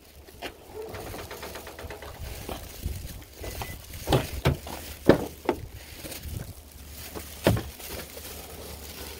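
Knocks and clunks of items being handled and set down on a pickup truck's lowered tailgate, about a second apart, with a brief rapid ticking a couple of seconds in, over a steady low hum.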